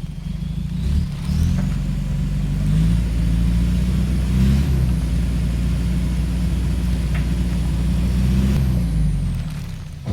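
Truck engine speeding up over the first couple of seconds, running steadily at high revs with a thin whine above it, then slowing and fading out near the end.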